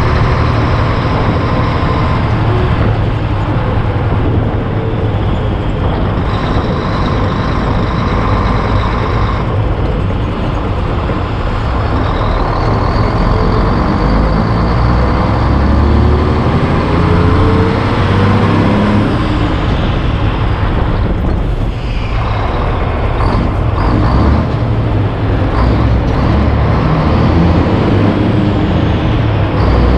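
Heavy diesel truck driving down the road: steady engine and road noise, the engine pitch climbing slowly through the middle, with a brief drop a little over two-thirds of the way through.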